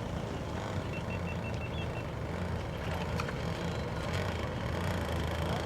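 Steady drone of RC racing boat engines running, with a quick run of about six short high beeps about a second in.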